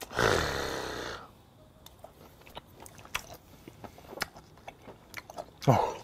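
A man chewing raw flounder sashimi: soft, wet mouth clicks and smacks at an uneven pace. A loud breathy exhale opens it, and a short low voiced hum comes near the end.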